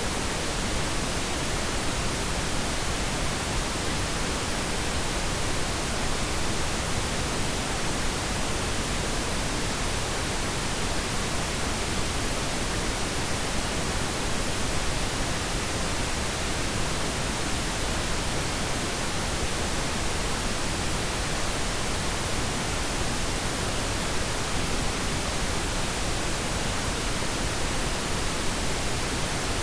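Steady synthetic pink noise: an even, unbroken hiss, unchanging throughout.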